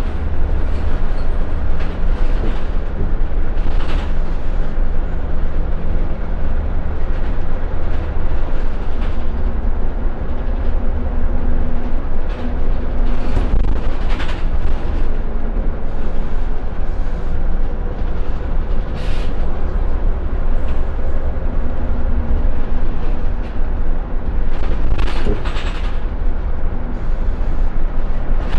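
Ride inside a Scania L94UB Wright Solar single-deck bus on the move: a steady low rumble of the diesel engine and road noise, the engine note rising and falling. Sharp knocks and rattles from the bodywork come now and then over bumps.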